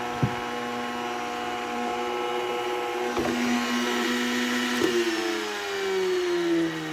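The battered commercial vacuum cleaner's electric motor is still running with a steady pitched hum, and a few sharp knocks sound over it. From about five seconds in, its pitch slides steadily down as the motor slows.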